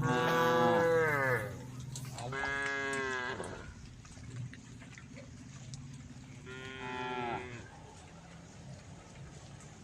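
Cow mooing three times, calling to the herd: about a second each, the first the loudest and falling in pitch, the second soon after, the third a few seconds later.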